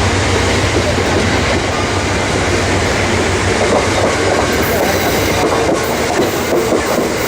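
A train rolling past close by: a steady loud rumble of wheels on rail with clickety-clack over the rail joints.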